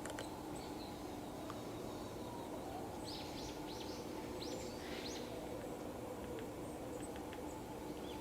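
Small wild birds calling in woodland: a run of short, sharp, high chirps about three to five seconds in, over a steady low hum.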